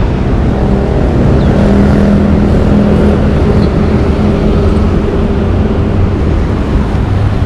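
Road traffic, with a vehicle engine humming steadily through the noise.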